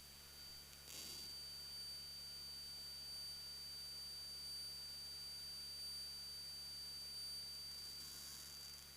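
Faint steady electrical hum with a thin high-pitched whine on a cockpit intercom/radio recording feed, with a brief soft hiss about a second in and again near the end.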